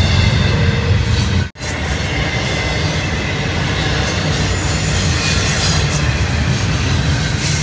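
Double-stack container train rolling past: a steady rumble of wheels on rail with a faint high squeal from the wheels. The sound drops out abruptly for a moment about a second and a half in, then resumes.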